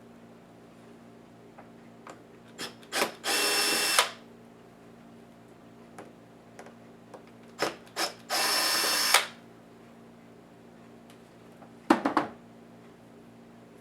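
Small electric screwdriver whirring in two short bursts of under a second each, a few seconds apart, driving screws out of a laptop. Light clicks and taps of parts and screws being handled come between them, with a louder cluster near the end.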